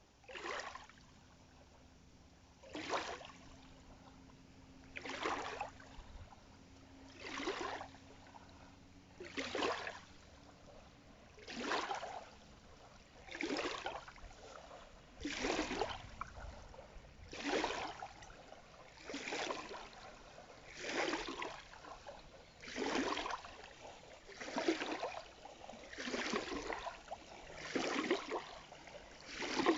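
Water splashing in regular strokes, one swish about every two seconds and gradually a little faster, like oars or a paddle pulling through water.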